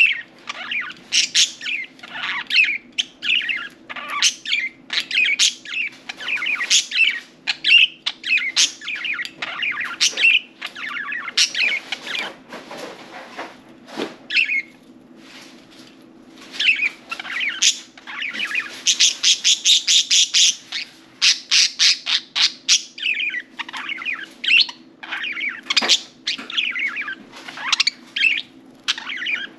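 Budgerigars chirping and chattering in quick warbling calls, with a quieter lull near the middle and a dense, loud stretch of rapid chatter about two-thirds of the way through. A low steady hum runs underneath.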